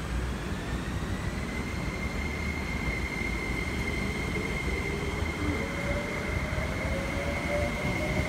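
MTR East Rail Line SP1900 electric train accelerating out of the station. A high whine rises in pitch over the first two seconds and then holds, and a lower whine climbs through the second half as the train gathers speed, over a steady rumble.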